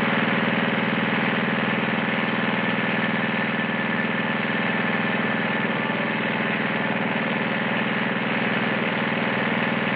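Petrol lawn mower engine running steadily at an even pitch, with a fast regular pulse.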